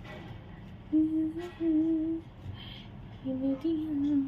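A woman humming a slow tune in a few held notes with small slides between them, broken by short pauses.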